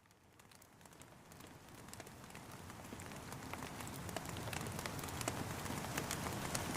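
Steady rain with many scattered drop ticks, fading in gradually from near silence to a moderate level.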